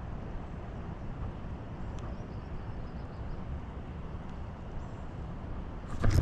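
Steady rushing rumble of high, fast water through a spillway, heaviest in the low end, with wind on the microphone. A sudden louder noise cuts in at the very end.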